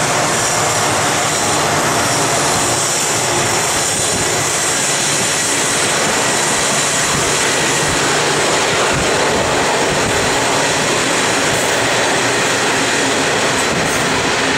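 Coal train passing: the diesel locomotives hauling it and the rumble of its hopper wagons on the rails, a loud, steady din with no let-up.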